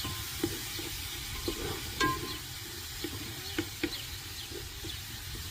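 A spoon stirring in a cooking pot: scattered short taps and clicks at irregular intervals over a low steady rumble.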